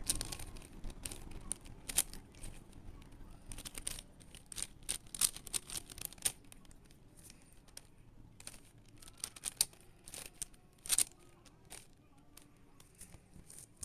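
Rubik's cube being turned by hand: irregular plastic clicks and clacks of the layers, some in quick runs, the loudest about eleven seconds in.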